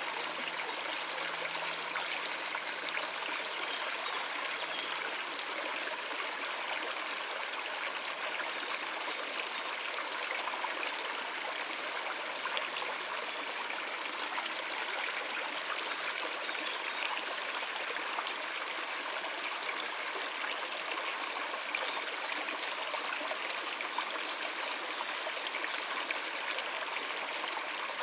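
Shallow stream water running over rocks, a steady trickling and splashing flow.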